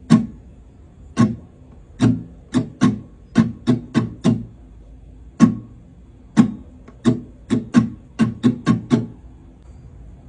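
Acoustic guitar strummed in short, quickly damped strokes, about nineteen in an uneven, repeating strumming pattern, stopping about a second before the end.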